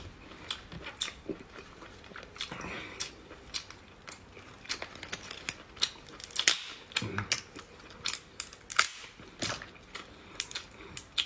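Close-miked eating of lobster meat: wet chewing with irregular sharp mouth clicks and smacks.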